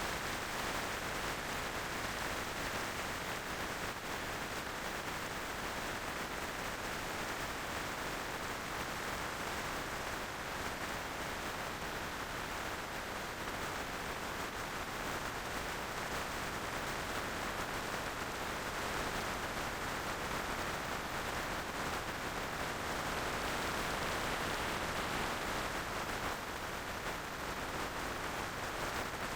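Steady rush of wind and road noise from a moving motorcycle, an even hiss with no distinct engine note or separate events.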